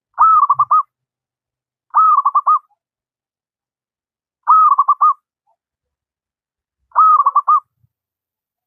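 Zebra dove (perkutut) of the local wild type cooing: four short phrases about two to two and a half seconds apart, each an arched note followed by a quick roll of three or four short notes.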